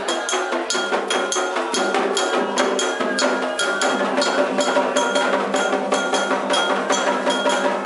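Ceremonial Candomblé percussion: a metal bell keeps a steady, fast struck pattern with a bright ring, over continuous hand-drum playing.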